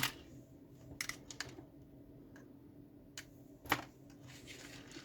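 Scattered light clicks and taps from working terminal pins out of a car's engine bay fusebox connector. The sharpest click comes a little past halfway.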